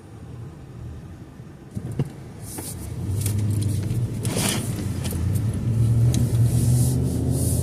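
Car driving: a low engine and road rumble that gets louder from about three seconds in as the car picks up speed, with a sharp click about two seconds in and some hiss over the top.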